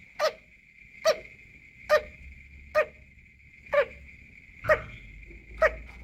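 A cage bird giving short, cough-like calls, seven in a row at a little under one a second, over a steady high-pitched whine.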